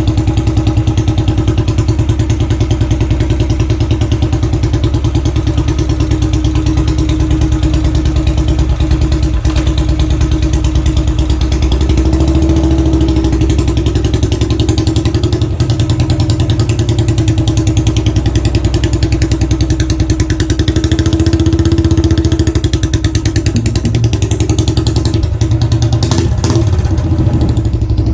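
Royal Enfield Classic 500's single-cylinder engine running steadily at low revs, its exhaust beat a rapid, even chuffing. A couple of sharp clicks come near the end.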